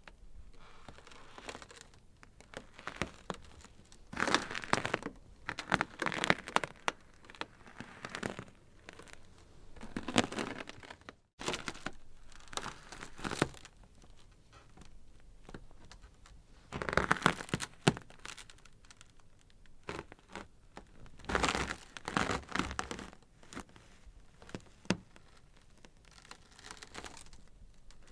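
Ice crackling and cracking: irregular clusters of sharp snaps and crinkles that come and go, with quieter, sparser crackle in between.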